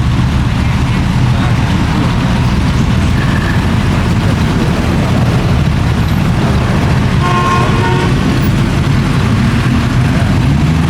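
A car engine running with a steady low rumble, and a short car horn toot about seven seconds in.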